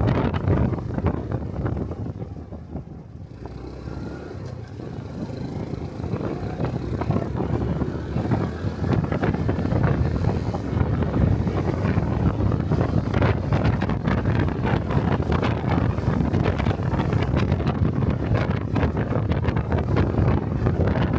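Riding on a small Honda Cub 125 motorcycle: the engine and road noise are mixed with wind buffeting the microphone. The sound drops away about two to four seconds in, then builds back up and holds steady.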